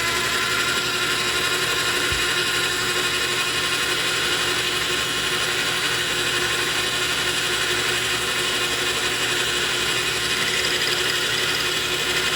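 Metal lathe running steadily at speed, its motor and gearing giving a steady whine made of several pitched tones over a mechanical hiss.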